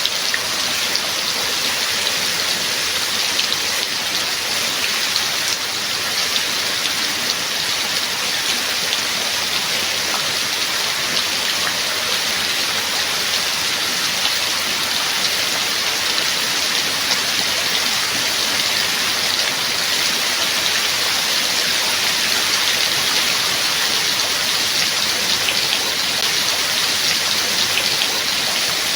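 Steady heavy rain: an even, dense hiss with scattered sharper drop taps.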